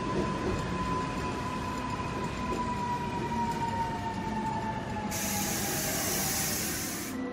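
Korail Line 1 electric commuter train rolling away on the rails, with a steady whine that slowly falls in pitch. About five seconds in, a loud hiss starts and cuts off sharply about two seconds later.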